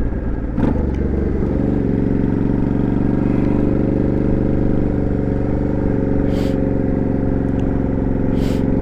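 Motorcycle engine running steadily under way, heard through the rider's lavalier mic, with a brief knock and a small change in engine note in the first two seconds before it settles. Two short hisses are heard later on.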